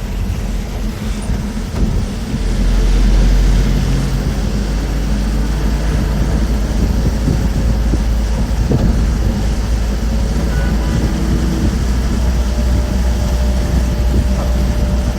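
Moving bus heard from inside: a steady low engine and road rumble, swelling louder for a second or so about three seconds in.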